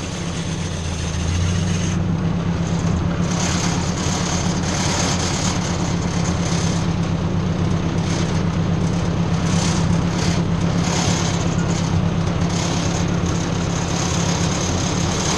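Ford 600 tractor's four-cylinder engine running steadily, picking up a little in speed about a second and a half in.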